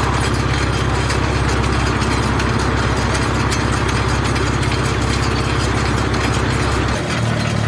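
A vehicle engine idling steadily with a low, even, fast-pulsing rumble; the low end of the sound shifts about seven seconds in.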